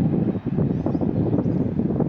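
A train passing close by, a loud steady rumble mixed with wind buffeting the phone's microphone.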